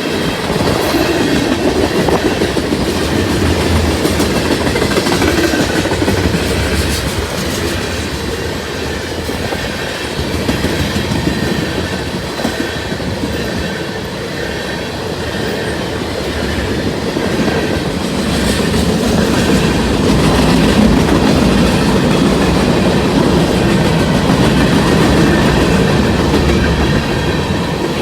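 CSX manifest freight train rolling past, its steel wheels running on the rails in a continuous loud rumble and rattle that swells and eases.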